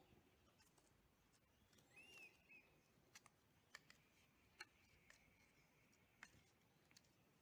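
Near silence, broken by a few faint clicks and one faint squeak as the plastic cover flap on a motorcycle battery is worked open by hand.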